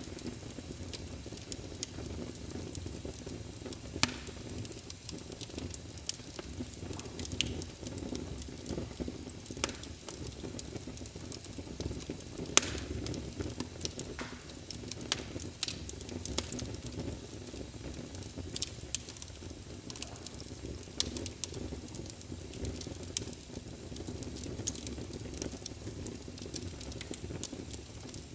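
Wood fire burning with a steady low rush and irregular crackles and sharp pops, a couple of them louder.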